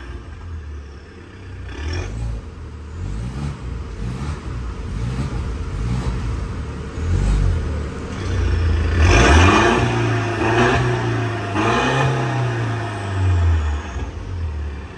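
Mercedes-Benz C180 Coupe's four-cylinder engine through an aftermarket Emil exhaust, revved in repeated blips so the exhaust note rises and falls. The loudest revs come past the middle, with sharp crackles among them.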